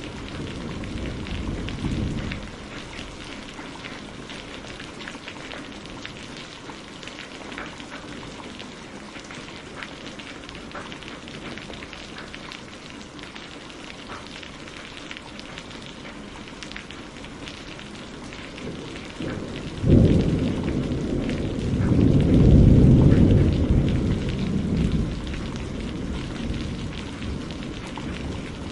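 Steady rain falling on a greenhouse, with many small drop taps. A low rumble of thunder fades out in the first two seconds, and about twenty seconds in a sudden thunderclap sets off a second, louder rolling rumble that dies away after a few seconds.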